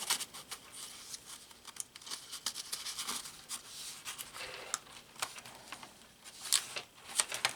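Paper rustling and crinkling as the pages of a handmade junk journal are turned and handled, with many small sharp clicks and taps throughout.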